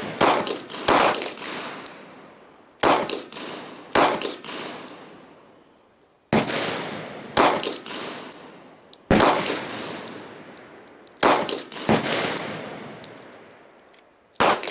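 Glock 22 Gen4 pistol in .40 S&W fired about eleven times at a steady, unhurried pace, roughly one shot a second with a few longer gaps, each shot ringing on. Light metallic pings between the shots, as spent brass casings land.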